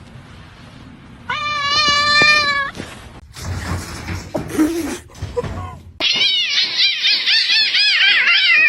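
A cat gives one long, slightly wavering yowl lasting about a second and a half. Later comes a rapid run of short rising-and-falling calls, several a second.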